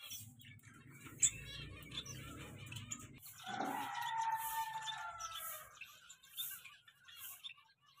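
Small cage birds chirping, with short high chirps repeating. Low rumbling noise in the first three seconds cuts off abruptly, and then one drawn-out call sweeps up and holds for about two seconds.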